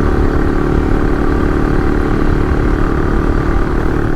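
AJP PR7 dual-sport motorcycle's single-cylinder engine running at a steady pace under way, with low wind rumble on the helmet microphone.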